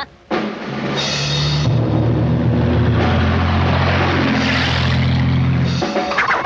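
Cartoon soundtrack: a loud, dense, noisy passage over low held notes, starting just after a brief gap and stopping abruptly about six seconds in, when orchestral music takes over.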